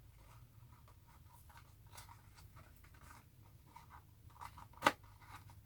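Faint scratchy handling noises with scattered small clicks, and one sharper, louder click near the end.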